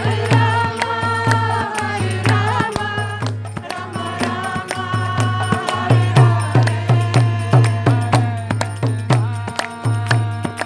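Devotional kirtan music: a chanted mantra with held melodic notes over a steady hand-drum beat and sharp cymbal-like clicks. The drumming picks up to quicker, evenly spaced strokes about halfway through.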